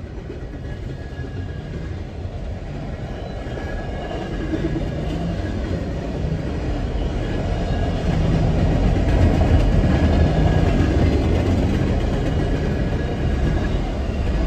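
Norfolk Southern intermodal freight cars rolling past a grade crossing: a steady low rumble of wheels on the rails with some clickety-clack, growing louder about halfway through, heard through the windshield of a car.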